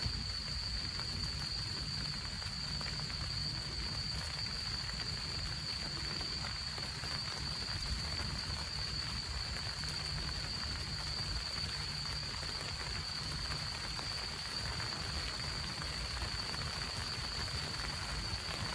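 Steady rainfall, an even hiss with no break, with a thin steady high-pitched tone running under it.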